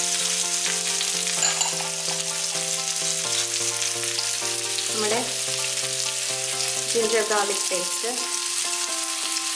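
Chopped onion, tomato and cashew nuts sizzling steadily in hot oil in a non-stick frying pan, over background music of held notes that change in steps.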